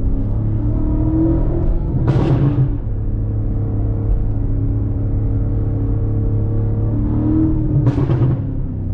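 BMW M5 Competition's twin-turbo V8 running steadily while driving, with two short louder surges, about two seconds in and near the end, each after the revs climb.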